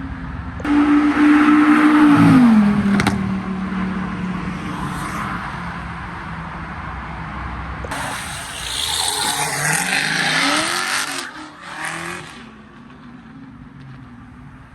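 Supercar engines revving hard as cars accelerate away: one loud burst about a second in whose pitch drops at about two and a half seconds, then a second car accelerating with rising pitch about eight seconds in, fading near the end.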